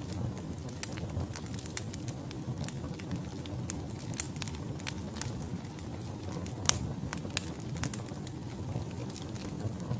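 Wood fire burning in a fireplace: logs crackling and popping at irregular intervals over a steady low rumble of flames, with one sharper pop near the end.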